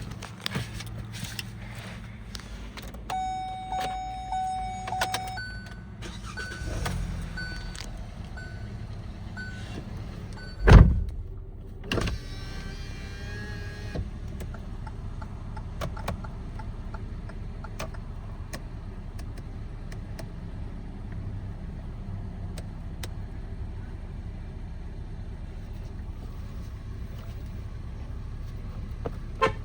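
Sounds of a 2018 Hyundai Tucson SEL against a steady low hum: a held chime tone, then a run of short repeated beeps, then one loud heavy thud about eleven seconds in and a smaller knock a second later.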